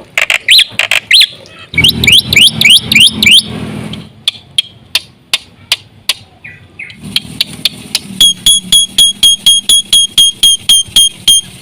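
Black-winged myna (jalak putih) singing loudly: rapid sharp chattering calls and rising whistles, then from about eight seconds in a long run of evenly repeated ringing notes, about five a second.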